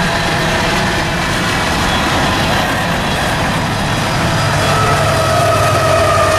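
Freight train passing close by: coal gondola cars rumbling and rattling over the rails. About two-thirds of the way through, the train's rear diesel locomotive draws level, adding a low engine hum and a steady whine.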